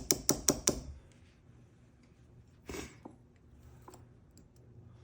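A quick run of sharp metallic taps, about five a second, stopping about a second in: the ignition lock cylinder being tapped to dump out its tumbler pins and springs. A short scraping rustle follows near the middle, then a few faint ticks of small parts.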